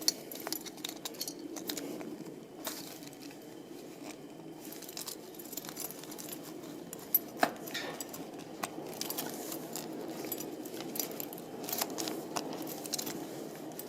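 Spudger tool working on a plastic key fob shell: scattered small plastic clicks and light scraping, with two sharper clicks about halfway through.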